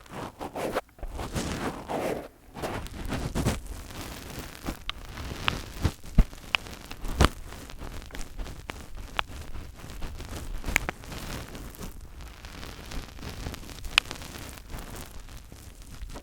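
Fingers rubbing and brushing directly on a microphone, a close scratchy rustle with scattered sharp taps and clicks.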